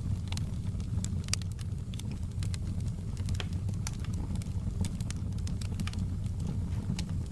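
Fireplace wood fire crackling: irregular sharp pops and snaps over a steady low rumble of flames.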